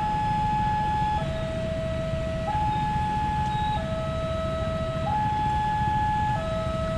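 Railway level-crossing warning alarm sounding a steady two-tone hi-lo signal, each note held for about a second and a quarter, over a low rumble. It means the crossing is closing for an approaching train.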